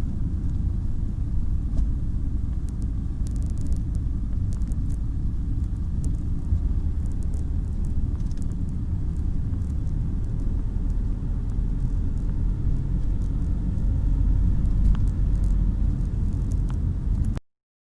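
Strong wind buffeting the microphone: a loud, gusting low rumble that cuts off abruptly near the end.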